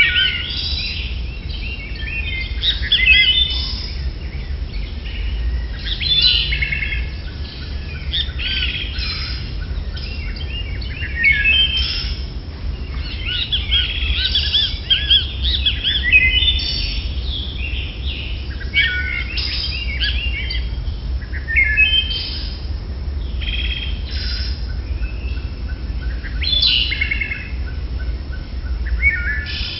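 Birds chirping and calling again and again in short, varied bursts, over a steady low rumble.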